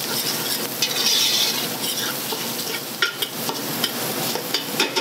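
Bacon, onion and garlic sizzling in a stainless steel stockpot while a metal spoon stirs them, with scrapes and light clicks of the spoon against the pot, more of them in the second half.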